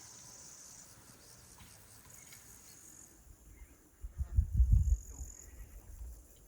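Insects chirping in short spells over faint outdoor ambience, with a brief low rumble on the microphone about four seconds in.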